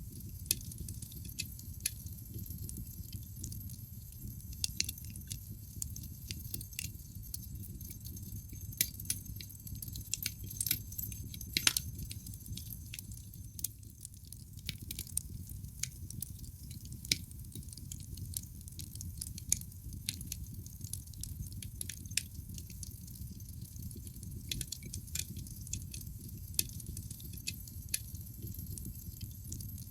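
Wood fire burning in a fireplace: a low steady rumble of flames with irregular crackles and pops from the burning logs, the sharpest snap about twelve seconds in.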